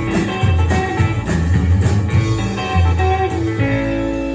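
Live rockabilly band with guitars and bass playing the final instrumental bars of a song, rhythmic chords that stop about three and a half seconds in on one held closing chord.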